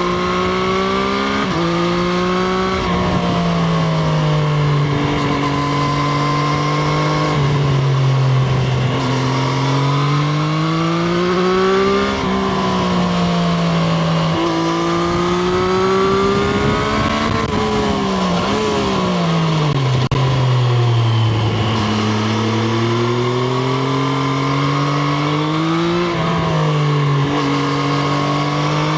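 Triumph Street Triple RS 765 cc inline three-cylinder engine under hard riding. The revs climb and drop sharply at several upshifts, fall away slowly for a few seconds around two-thirds of the way through, then climb again.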